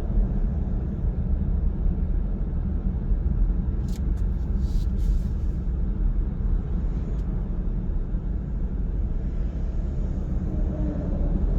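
Car driving through a road tunnel: a steady low rumble of road and tyre noise, with a few short faint clicks about four to five seconds in.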